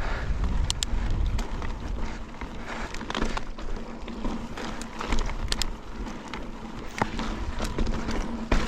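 Mountain bike riding over slickrock: wind rumble on the microphone and tyre noise, with scattered sharp clicks and rattles from the bike.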